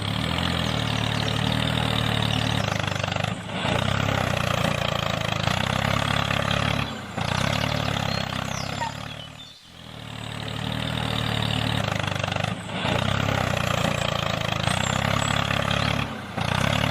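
A small mini-tractor motor running steadily under a low hum, broken by several brief dips and one fade-out and back near the middle.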